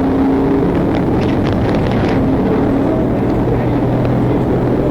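Steady drone of a police helicopter's engine and rotors, with a few held tones over a constant rushing noise.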